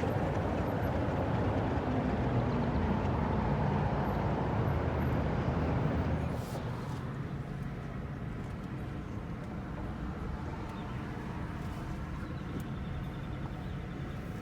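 Car driving, with steady road and engine noise heard from inside the cabin; the noise drops noticeably about six seconds in.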